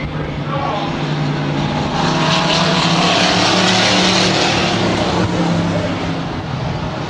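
Stock trucks racing on a dirt oval, engines running hard; the sound grows louder about two seconds in as trucks come past, then eases a little near the end.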